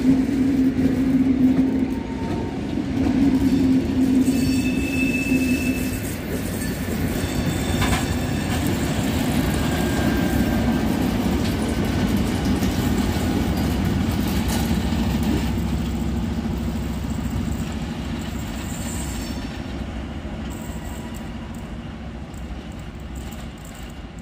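SM42 diesel-electric shunting locomotive moving a multiple-unit train past at shunting speed: engine running and wheels rolling on the rails, with a few brief high wheel squeals. The sound grows fainter near the end as the train moves away.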